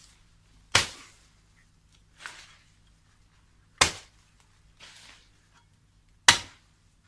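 Heavy hand tool striking hard, three sharp loud blows about two and a half seconds apart, with a fainter knock between each.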